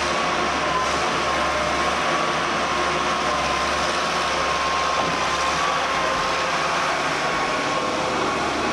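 Steady hiss with a thin, slightly wavering high whine and a low hum underneath, unchanging throughout.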